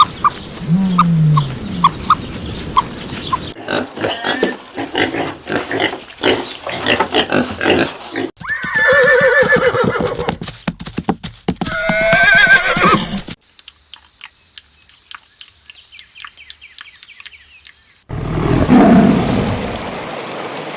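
A string of animal sound clips: a horse whinnying twice in the middle, after shorter low calls and rhythmic clicking, then a tiger's low growl beginning near the end.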